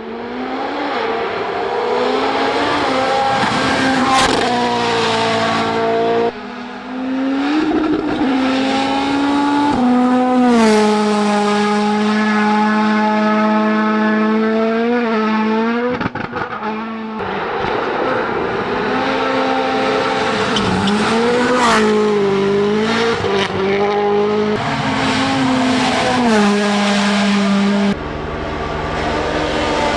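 Rally1 rally cars' turbocharged four-cylinder engines at full throttle, revving up, holding high revs and dropping through gear changes, over several quick cuts from one car to the next. A few sharp cracks stand out over the engine.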